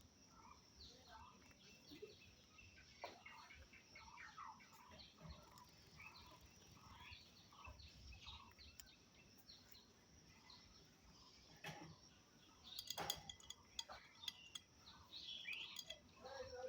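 Budgerigars chattering and warbling faintly in a steady stream of short chirps, with a few sharp clicks about three-quarters of the way through.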